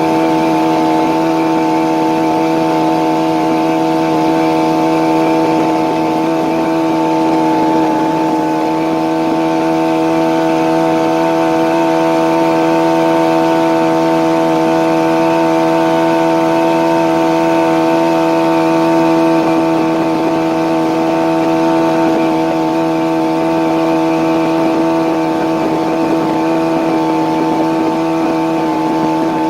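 Yamaha outboard jet motor on a jon boat running steadily at a constant cruising speed, its pitch holding even.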